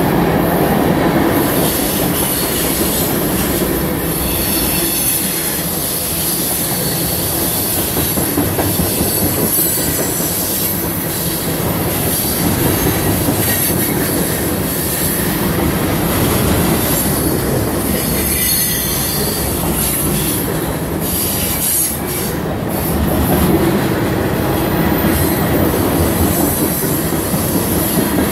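CSX freight train of tank cars rolling past close by: a steady rumble and clatter of steel wheels on the rails, with a high-pitched wheel squeal over it.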